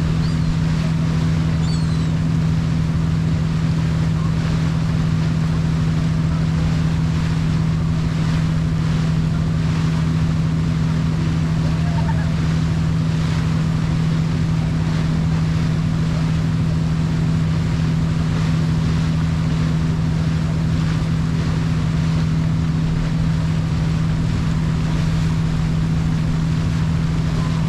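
Sightseeing boat's engine running with a steady low drone, over rushing water and wind noise.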